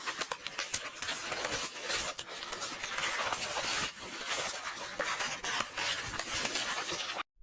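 AI-generated paper rustling and crackling of book pages being handled and turned, a continuous dense rustle with many small crisp clicks. It drops out abruptly to silence for a moment near the end.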